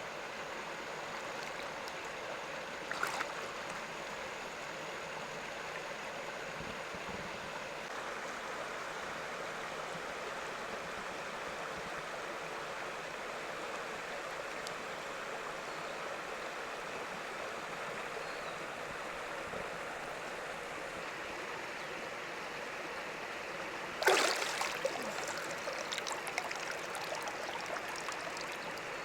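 Steady rush of flowing stream water. A short click comes about three seconds in, and near the end a sudden loud knock or splash is followed by a few seconds of smaller clicks.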